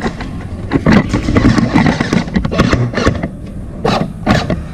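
Low rumbling rustle with irregular sharp knocks and clicks, about a dozen spread unevenly through the stretch.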